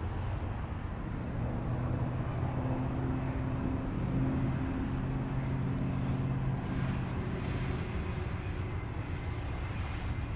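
Diesel freight locomotives running as a train goes by: a steady engine drone whose pitch shifts a little around the middle, over continuous rolling noise.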